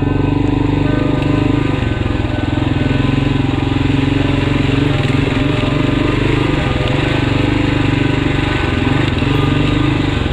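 Kawasaki KLR650's single-cylinder engine running steadily under way, with wind rushing past.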